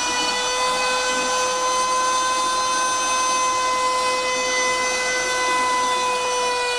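CNC router spindle running at a steady high-pitched whine while its bit mills out a puzzle, with a rough cutting noise underneath.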